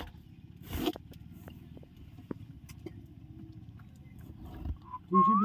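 Low background noise with a short rustling burst about a second in, then near the end a clear whistled note that rises in pitch.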